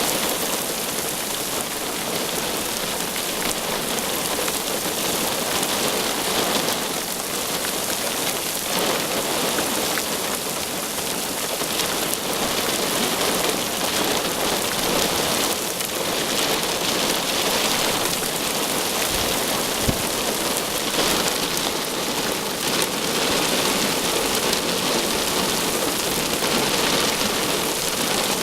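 Heavy rain falling steadily, with a single sharp tap about twenty seconds in.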